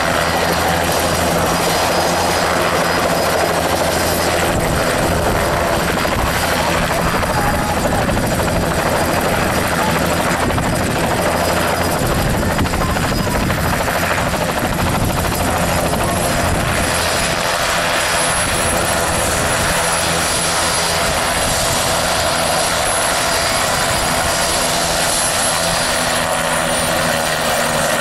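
Agusta-Bell 206B helicopter's rotor and turbine engine running loud and steady, with a high turbine whine that drops in pitch near the end.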